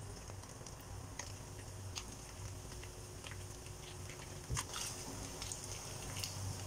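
Paneer cubes frying in a little oil in a nonstick kadai: faint, scattered crackling and sizzling, with soft taps as more cubes are set into the pan, one a little louder about four and a half seconds in, and a wooden spatula starting to turn them near the end. A low steady hum runs underneath.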